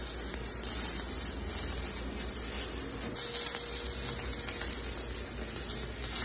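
Electric arc welding: a steady crackling sizzle from the arc as a bead is laid.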